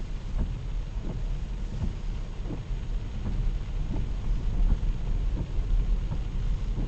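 A vehicle travelling in heavy rain: a steady low rumble of road and engine under a wash of rain noise, with a regular soft thud about every seven-tenths of a second.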